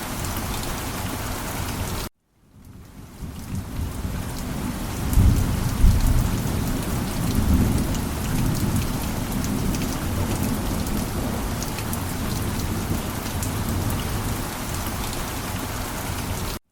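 Steady heavy rain, with a low rumble of thunder swelling about five to six seconds in. About two seconds in the sound cuts out abruptly, then fades back up over a second or so. It cuts out again right at the end.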